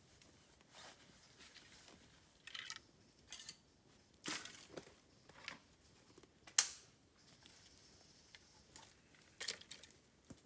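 Dry bamboo crackling and snapping in irregular single cracks, with one sharp, loud snap about six and a half seconds in.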